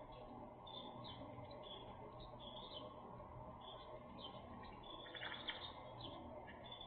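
Many small birds chirping and twittering in quick, overlapping short calls, with one slightly louder call about five seconds in, over a steady low background noise.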